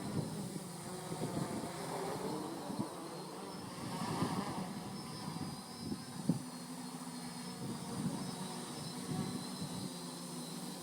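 Home-built quadcopter's Turnigy 2213N brushless motors and propellers whining steadily, their pitch shifting as the throttle changes, with wind gusting over the microphone.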